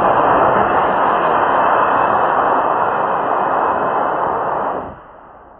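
Model rocket's B-class motor firing at lift-off: a loud, steady rushing hiss that starts at once and cuts off about five seconds in.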